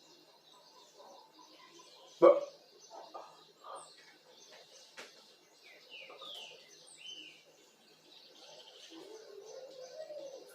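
Birds chirping in short, downward-sliding notes. A sharp, loud knock comes a little over two seconds in, and a low wavering sound runs near the end.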